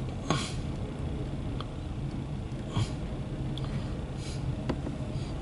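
Loaded CSX autorack freight train rolling by: a steady low rumble broken by a few sharp knocks.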